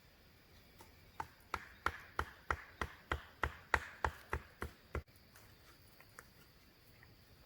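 A quick run of about a dozen sharp chopping strikes on wood, roughly three a second, growing louder and then stopping.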